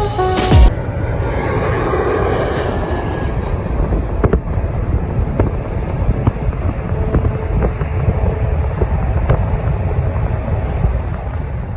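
Airliner jet engines running, a steady rushing rumble with wind buffeting the phone's microphone.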